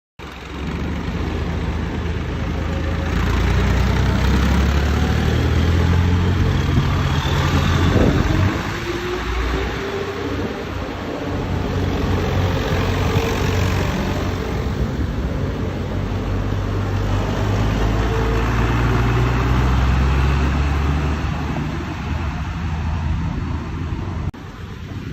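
Old tractors driving past with their engines running, growing loud twice, about four to eight seconds in and again around sixteen to twenty seconds in.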